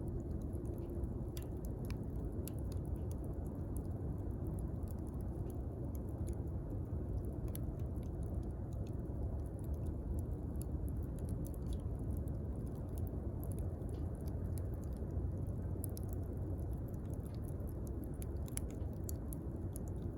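Campfire burning: a steady low rush of flame with many scattered sharp crackles and pops.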